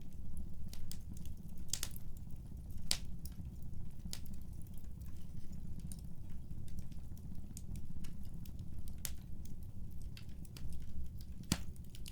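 Wood fire crackling, with irregular sharp pops and snaps over a low, steady rumble; one louder pop near the end.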